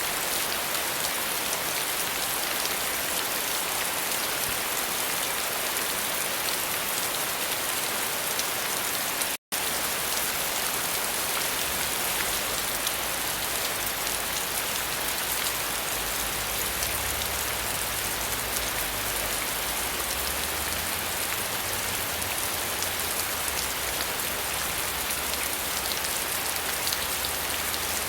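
Steady heavy rain falling, a dense even hiss of drops on surfaces. About a third of the way in the sound cuts out for an instant, and after that a low rumble runs underneath.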